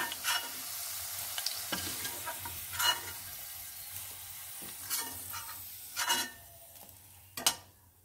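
Hot oil sizzling in a stainless steel kadai as fried potato pieces are scooped out with a perforated metal skimmer, which scrapes and clinks against the pan several times. The sizzle dies away near the end as the last pieces come out of the oil.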